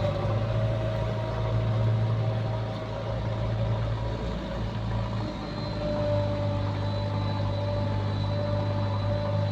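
Heavy diesel engine of earthmoving machinery running steadily, with a faint steady whine coming in about halfway through.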